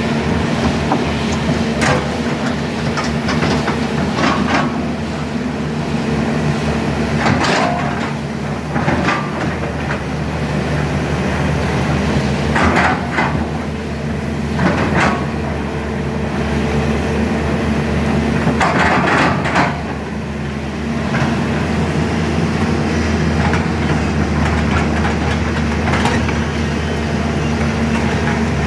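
Sany SY210C-9 hydraulic excavator running steadily while digging, its diesel engine humming throughout, with short bursts of scraping and clatter from the bucket working every few seconds.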